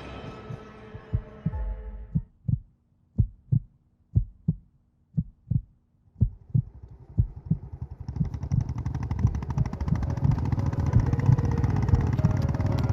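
Music fades out, then a heartbeat sound effect of doubled low thumps, about one beat a second. About halfway through, a low pulsing rumble swells in and keeps building, drowning the beats out.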